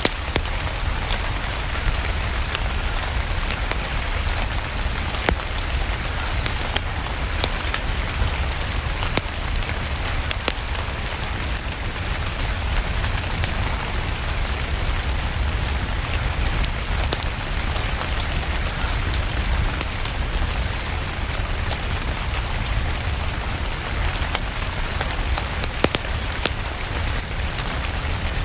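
Steady rain falling, an even hiss with a low rumble beneath, dotted with scattered sharp ticks that may be fire crackle.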